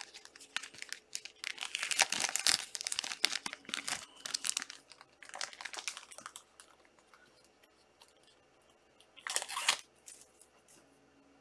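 Plastic trading-card pack wrappers crinkling and tearing as packs are opened by hand, in dense bursts for the first five seconds and again briefly about nine seconds in.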